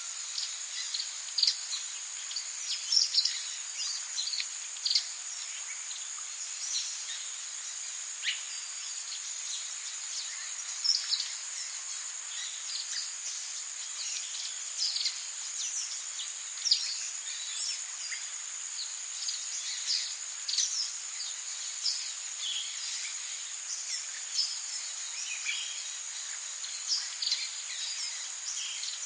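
Tropical rainforest ambience: a steady, high-pitched insect drone, with many short chirps and bird calls scattered over it.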